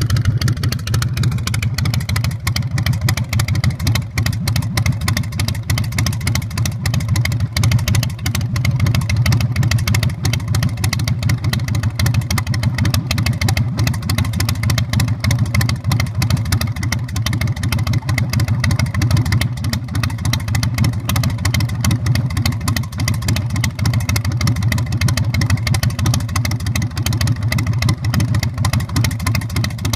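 Carbureted 117 cubic inch S&S V-twin of a 2005 Big Dog Pitbull chopper running steadily at an even speed through its custom exhaust, a deep, evenly pulsing note with no revs.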